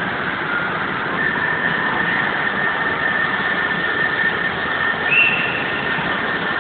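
Passenger train at the platform: steady machinery noise with a thin, high, steady whine that sets in about a second in, and a brief higher squeal about five seconds in.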